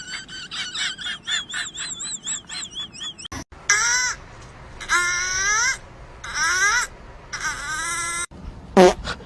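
Animal calls: about three seconds of quick, high, repeated chirping, then after a break four separate drawn-out calls that glide in pitch, and near the end one short, loud call that falls steeply.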